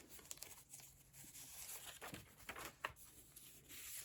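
Faint rustling of thick paper pages being turned and handled in a handmade junk journal, with a few light taps about halfway through.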